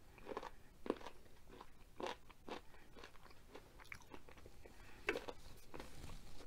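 A person chewing a mouthful of chicken curry with mushrooms, in a run of irregular chews.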